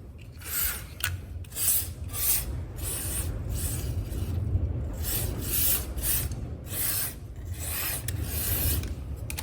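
Aerosol chain cleaner (Motul Chain Clean) sprayed in about a dozen short hissing bursts around a motorcycle's front sprocket and chain guide, to loosen built-up grease and dirt.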